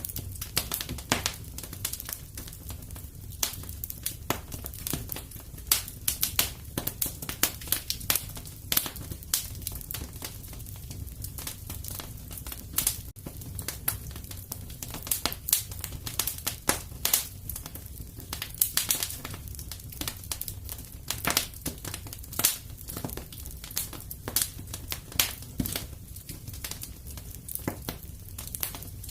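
Fire crackling in a fireplace: irregular sharp pops and snaps, some louder than others, over a low steady rumble.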